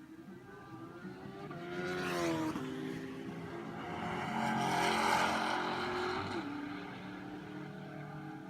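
Ford 5.0 L HO V8 revving. The pitch climbs and then drops off sharply about two and a half seconds in. The engine then holds at higher revs, loudest around five seconds in, before falling back to a lower run about six and a half seconds in.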